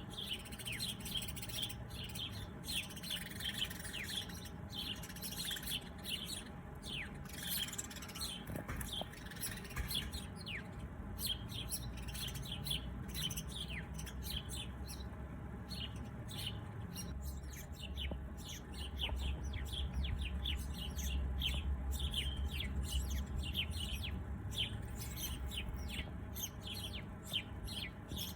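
A chorus of small birds chirping: many quick, short, downward-sweeping chirps overlapping without a break.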